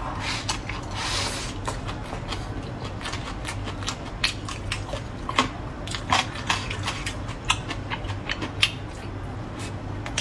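A person chewing a mouthful of food, with wet, irregular mouth smacks and clicks several times a second.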